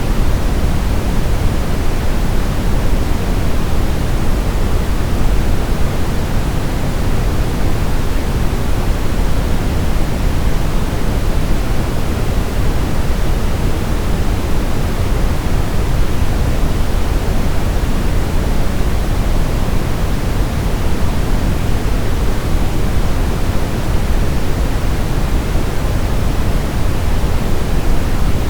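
Steady brown noise: a deep, even hiss weighted toward the bottom, unchanging throughout.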